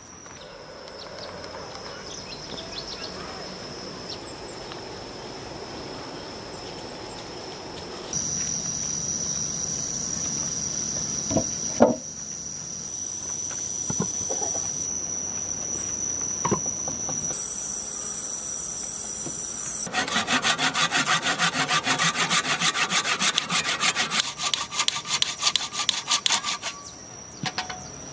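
Hand tools working wood in several short cut-together takes: rubbing and scraping strokes, a few sharp knocks, and near the end a fast even run of sawing strokes, several a second. A steady high-pitched whine runs underneath.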